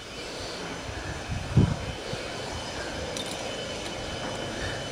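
Chainsaw engine running steadily, with one low thump about a second and a half in.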